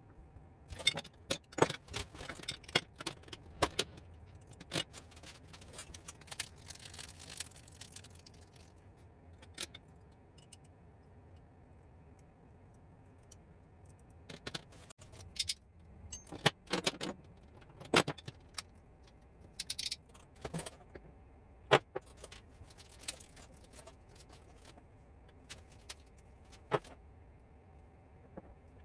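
Metal hand tools and parts clinking and tapping against each other and a hard surface, in scattered sharp knocks that sometimes come in quick clusters. A faint steady hum sits underneath.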